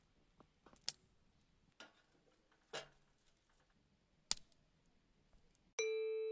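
A few scattered faint clicks and a short rustle, one sharper click about four seconds in, then a bright bell-like chime rings out near the end.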